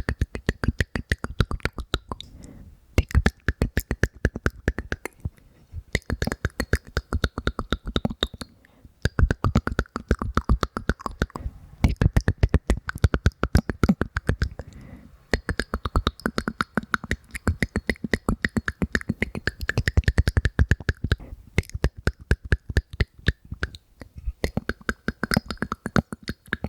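ASMR mouth sounds: rapid wet clicks and pops made by a person's mouth close to the microphone, in runs of a few seconds separated by short pauses.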